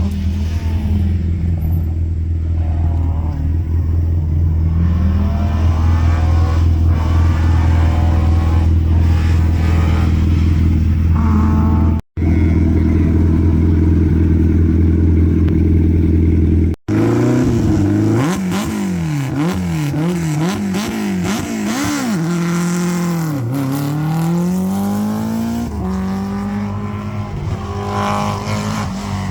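Historic rally car engine running loudly at a steady high idle, then revved up and down repeatedly from about two-thirds of the way in. The sound drops out briefly twice.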